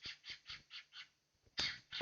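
Cockatiel giving a run of short, harsh calls, about four a second, then a louder, longer one about a second and a half in, with a dull knock under it.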